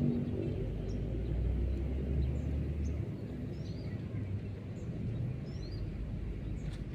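Outdoor ambience: a steady low rumble, heaviest for the first three seconds, with faint, short, high bird chirps scattered through.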